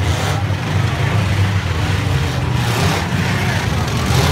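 Engines of four-cylinder demolition derby cars running loudly and steadily, with the odd rise and fall in revs.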